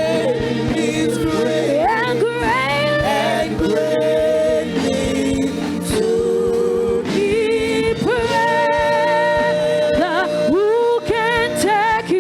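Gospel worship singing: a voice holds long notes with vibrato and slides between pitches in runs, over steady sustained accompaniment.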